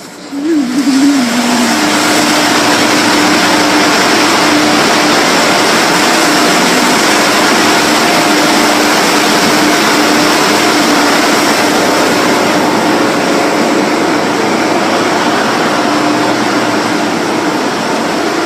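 Large car wash air blower motor starting up abruptly and running steadily, a loud rushing of air over a steady hum.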